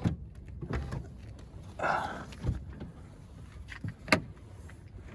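The rear liftgate of a 2010 Lexus RX 450h being unlatched and raised: a series of latch clicks, a short whirring rush about two seconds in, and one sharp clunk about four seconds in. The liftgate will not stay open.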